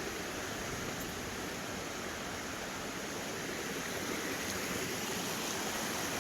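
Steady rushing of water from a small waterfall cascading into a pond.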